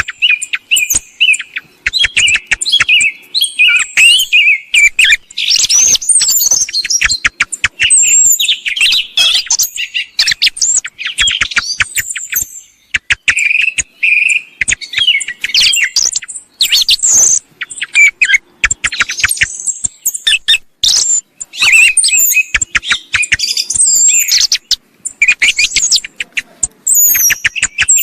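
Song thrush song and calls in a continuous, dense run of sharp, quickly repeated whistled phrases and clicking notes. It is a recorded call mix made as a lure for thrush hunting.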